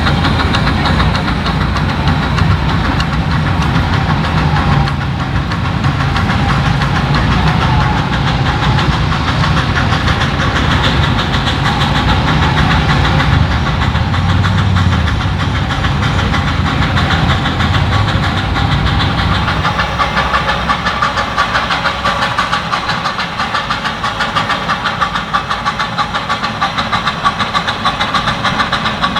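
Live steam miniature locomotive running, a rapid, steady chuff of exhaust beats with steam hiss and the rumble of the train, the low rumble easing about two-thirds of the way through.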